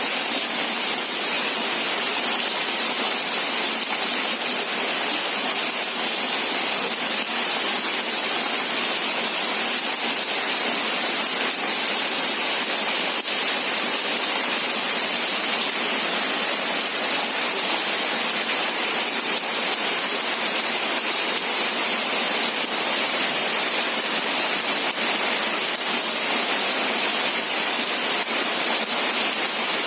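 Steady, dense rainfall, an even hiss with no breaks or distinct drops standing out.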